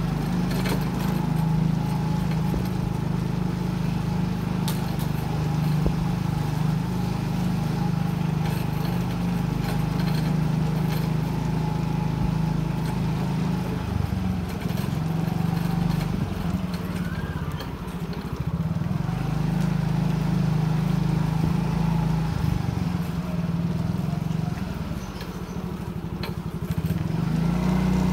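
Motorcycle engine running while riding, with the throttle easing off and picking up again a few times.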